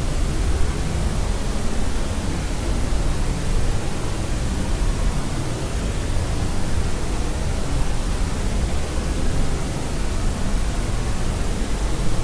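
Steady electronically generated noise sleep sound, a constant even hiss weighted toward the low end, with no changes.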